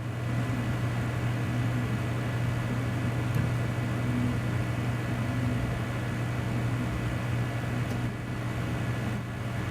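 Desktop PC running with a Seagate Exos X22 22TB hard drive spinning during a file copy, a steady low hum mixed with fan noise.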